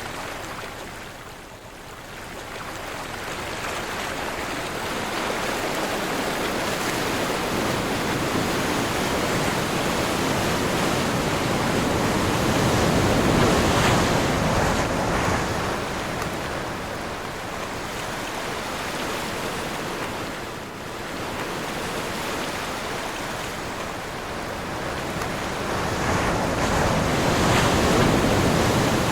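Sea surf breaking and washing in a steady wind. The wash swells and eases slowly, growing loudest about halfway through and again near the end.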